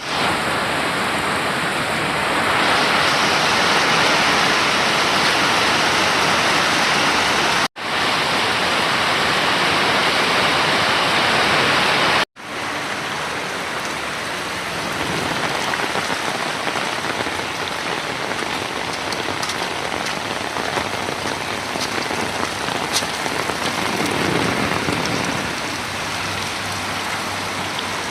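Heavy rain falling, a dense steady hiss. It cuts out abruptly twice and is a little lighter after the second break.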